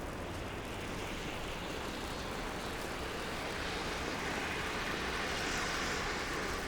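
City traffic noise, with a vehicle's tyres hissing past on a snowy street: the hiss swells past halfway and drops away near the end.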